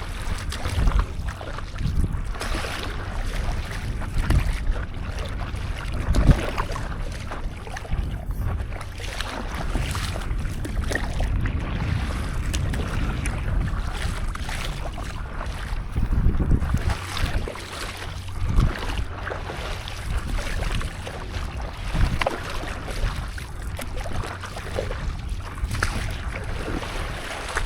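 Seawater splashing and sloshing around a stand-up paddleboard, with wind buffeting the microphone in a steady low rumble and irregular gusts.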